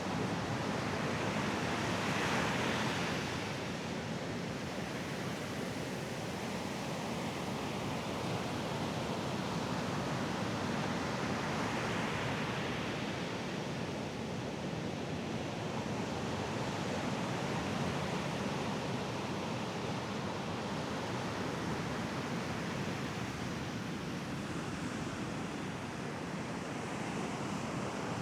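Mediterranean surf washing onto a sandy beach, a steady rush of waves that swells about two seconds in and again near the end.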